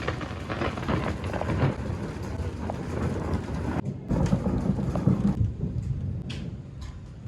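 Rain falling with low rolling thunder. The sound drops out for a moment about four seconds in, then comes back.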